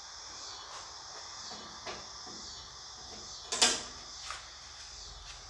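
Handling clatter: a few light knocks and one sharp, loud clack a little past halfway, like a lid or cover being opened or shut, over a steady high hiss.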